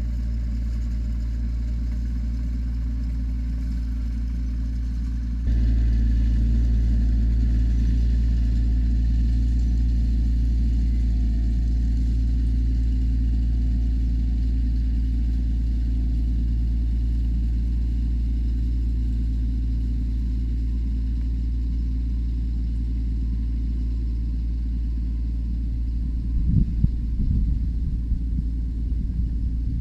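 Tractor engine running steadily while driving a sickle bar mower, a constant low drone. About five and a half seconds in it suddenly gets louder, and near the end there are a few irregular low bumps.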